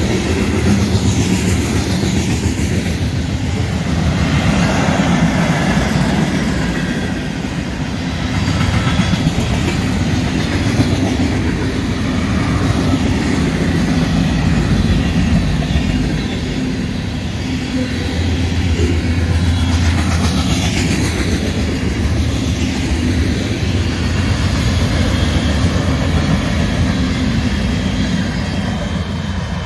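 A train rolling past, loud and steady, its railcars running by on the rails.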